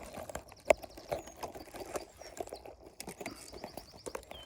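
Rustling and sharp snapping of gorse stems being pushed aside, with one loud snap under a second in. A faint high bird trill sounds twice in the background.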